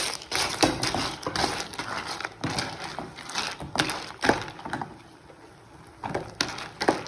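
Crisp fried tapioca chips being tipped into a pan of thick coffee-sugar syrup and stirred: a run of dry crunching and clattering strokes, easing off briefly about five seconds in before picking up again.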